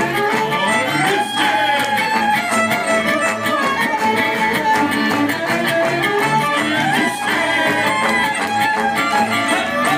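Live Romanian-style gypsy folk band playing an instrumental passage: a violin leads over strummed acoustic guitar and bass, with sliding glides in the melody about a second in and again near seven seconds.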